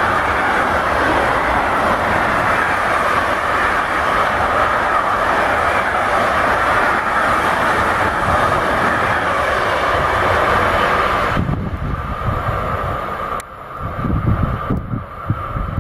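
Freight train of container wagons rolling past at speed, with a steady loud clatter and rush of wheels on rails that drops off about two-thirds of the way in as the last wagons go by. Near the end, gusty low buffeting takes over, like wind hitting the microphone in the train's wake.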